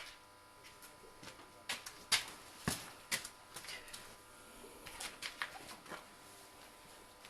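Irregular light clicks and knocks of hand work on a car during an oil change, a dozen or so scattered short hits, the sharpest about two seconds in, over a faint steady thin hum.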